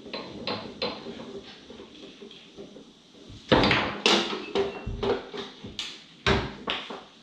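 Play on a Tornado foosball table: an irregular string of sharp knocks and clacks from the ball, the figures and the rods. The loudest knocks come in a cluster about three and a half seconds in and again a little after six seconds.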